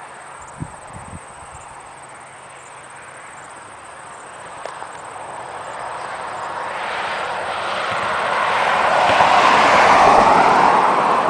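A vehicle passing on the highway: its road noise swells over several seconds, is loudest about ten seconds in, then begins to fade. A couple of light knocks near the start.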